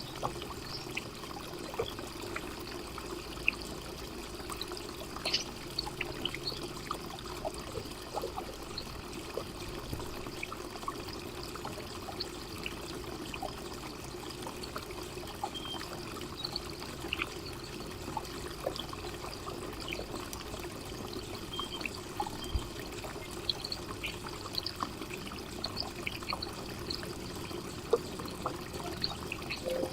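Garden fountain trickling steadily, with scattered brief sharp sounds over it.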